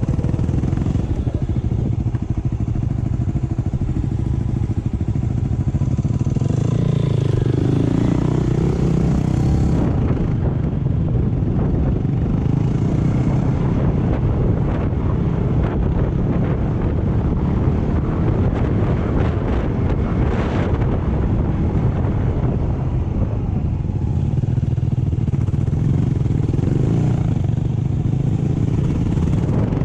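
Off-road motorcycle engine running while being ridden over rough ground. Its note dips and comes back up once, about seven seconds in, under a constant clatter.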